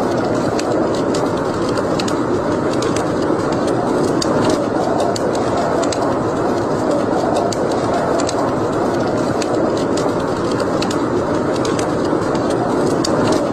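Wood fire burning in a fireplace, with a steady rushing sound under frequent irregular sharp crackles and pops.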